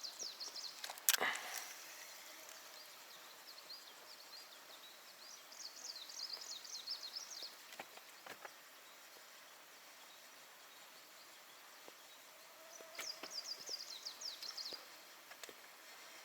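A songbird singing short, quick, high trilled phrases, three times about six seconds apart, over quiet riverside background. A single sharp click sounds about a second in.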